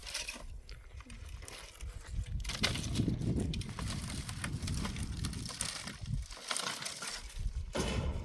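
Irregular crackling and rustling over a low rumble, growing louder about two and a half seconds in and easing near the end.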